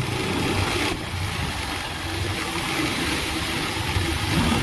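Bajaj Pulsar 220's single-cylinder engine running steadily as the motorcycle is ridden, under a steady rush of noise.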